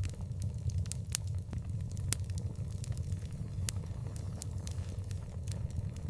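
Wood fire crackling, with scattered sharp pops, a few of them louder, over a steady low rumble.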